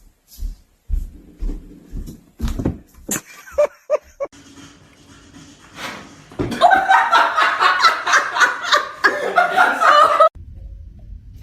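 A few short taps and knocks, then from about six and a half seconds in a person laughs hard for nearly four seconds, cutting off suddenly.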